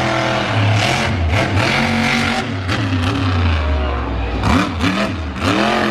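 Monster truck engine revving hard, its pitch climbing and dropping again and again, with a quick series of sharp cracks near the end.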